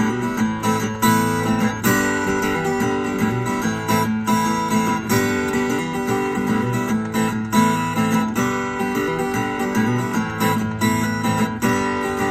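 Instrumental break of a song: strummed acoustic guitar with backing, no vocals.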